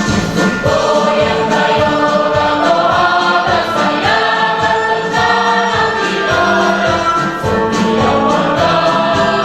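Mixed choir singing a march in unison and harmony, held notes over a steady rhythmic accompaniment.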